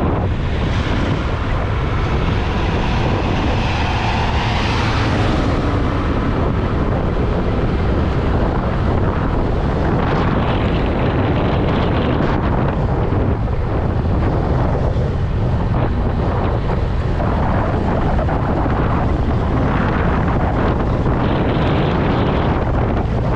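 Wind buffeting the microphone on a moving Honda Click 125i scooter: a steady, loud rumble, with the scooter's engine and road noise underneath.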